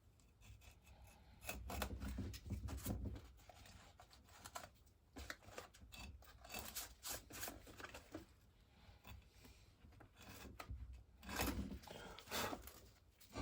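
A sharp blade scraping and cutting away loose, straggly bits from the edge of a gasket, in short, irregular bursts of scratching and tearing, the strongest about two seconds in and again near the end.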